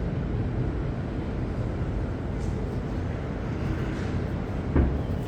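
Fireworks going off: a continuous low rumble of bursts, with one sharper bang near the end.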